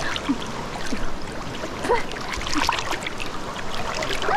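River water running and splashing in many short sharp bursts, as people wade through a shallow river.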